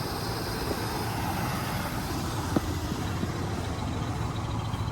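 1973 Chevy K20 pickup's engine idling steadily after sitting unstarted for about 20 years, with a single sharp click about halfway through.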